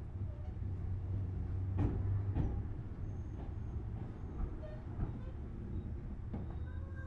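Tobu Series 6050 resistor-controlled electric train running, heard from inside the motor car: a steady low rumble with a few sharp wheel clicks over the rails.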